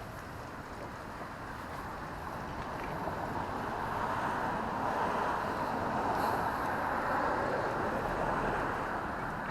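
A road vehicle passing on a city street: its tyre and engine noise builds over a few seconds, peaks past the middle, then fades away.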